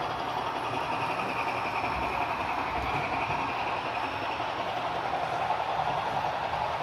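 HO scale model train rolling along the layout track with a steady rumble, and a faint higher whine from about one to four seconds in.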